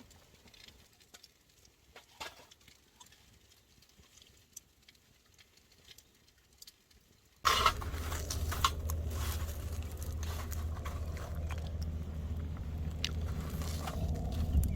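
Quiet chewing with small scattered clicks, then, about halfway through, a sudden switch to a louder steady low rumble with dense crackling.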